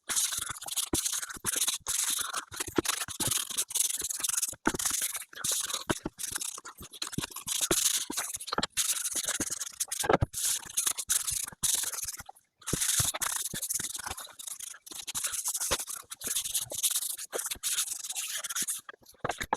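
Hand work on wooden bookcase parts, sped up: rapid rubbing and scraping with many sharp clicks and knocks, in short stop-start stretches, with a brief break about twelve seconds in.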